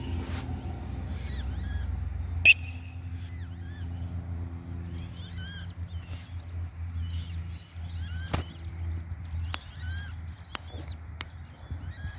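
Water-bird chicks peeping over and over in short, high, rising-and-falling calls, the begging calls of hungry young at feeding time, over a steady low hum. Two sharp clicks stand out, one early and one about two-thirds of the way through.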